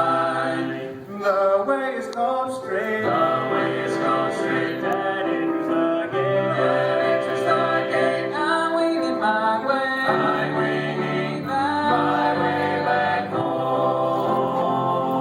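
Gospel vocal group singing in close harmony, holding chords that shift from phrase to phrase, with a short break between phrases about a second in.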